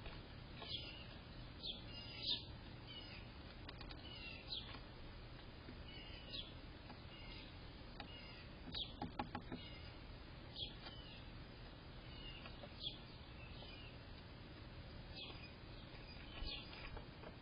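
A small bird chirping: short, high, downward-sliding chirps repeated every second or two, over a faint steady background hiss. A quick run of clicks sounds about halfway through.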